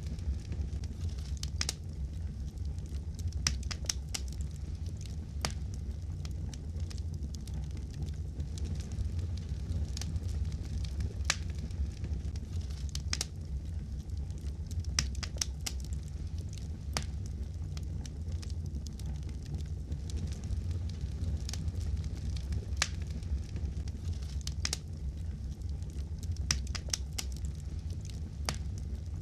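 Fire crackling in a fireplace: irregular sharp pops and snaps, a few each second, over a steady low rumble.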